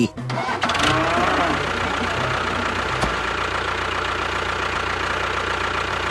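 A tractor engine idling steadily, with a faint steady whine above it.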